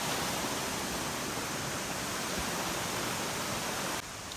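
Steady rushing of stream water, which drops suddenly to a quieter level about four seconds in.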